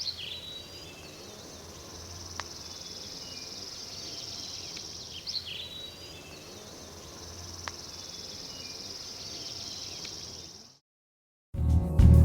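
Outdoor nature ambience: insects keep up a steady high-pitched chirring, and a bird's swooping call comes twice, at the start and about five seconds in. The ambience cuts off near the end, and soft music begins just before the end.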